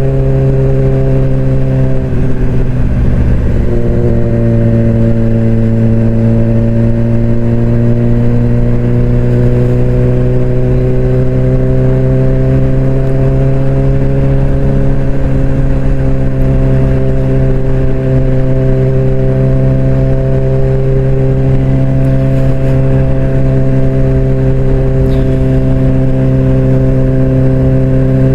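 Suzuki GSX-R600 inline-four sportbike engine running under way, loud and steady. About two seconds in the note breaks briefly, then it climbs slowly in pitch for about ten seconds and holds.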